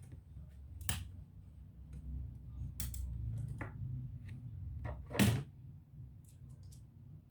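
Light clicks and knocks of laptop parts and tools being handled during disassembly, with the loudest knock about five seconds in, over a low rumble of handling noise.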